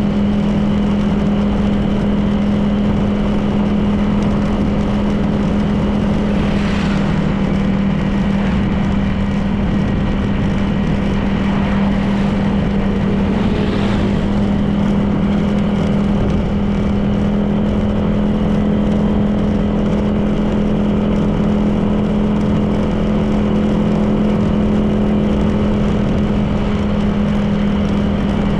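Honda PCX 160 scooter's single-cylinder engine running at a steady cruising pitch under road noise. Two brief whooshes come about 7 and 14 seconds in.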